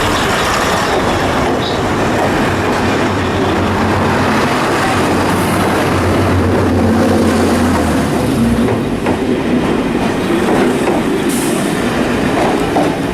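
A heritage train running on the rails: a steady, loud rumble of wheels and track with a clickety-clack rhythm and some wheel squeal.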